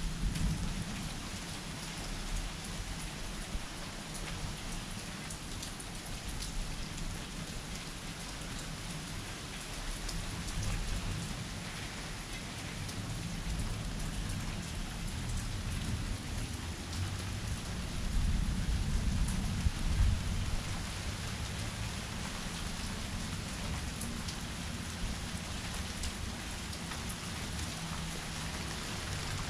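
Steady rain falling, with a low rumble swelling about two-thirds of the way through.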